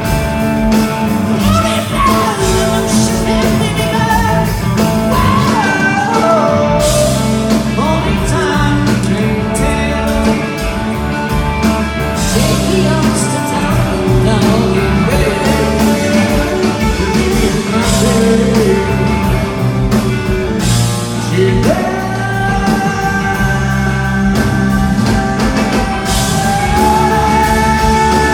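A rock band playing live and loud: electric guitar, bass and drums with a singer.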